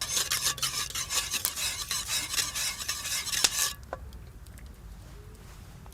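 A utensil stirring and scraping in an iron pot, with light clinks. It stops suddenly a little under four seconds in.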